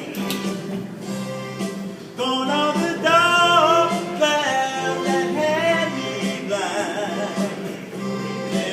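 Buskers singing: a male voice sings held, bending phrases over a steady low backing that repeats. The singing gets louder about two seconds in.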